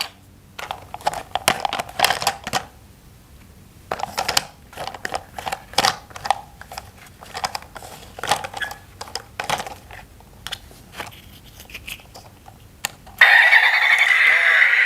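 Hard plastic toy parts clicking and clattering as they are handled and fitted together, in quick clusters of taps with short pauses. Music starts near the end.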